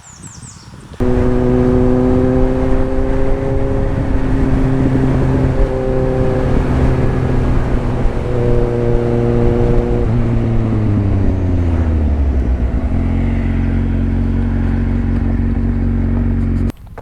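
Motorcycle engine running at steady revs while riding, its pitch falling about ten seconds in as it eases off, then holding steady at lower revs. The sound starts and stops abruptly.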